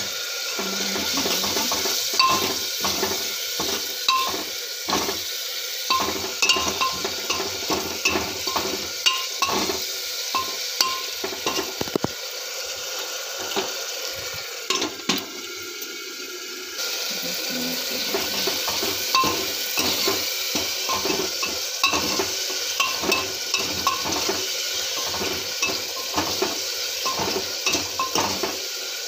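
Chopped capsicum sizzling in hot oil in a pan while a spatula stirs it, with quick irregular scrapes and taps of the spatula against the pan. The sizzle drops away briefly about halfway through, then comes back.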